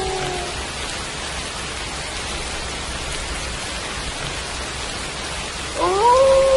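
Steady rain falling. A wolf's howl slides down and fades out just after the start, and near the end another howl rises sharply and then holds a steady pitch.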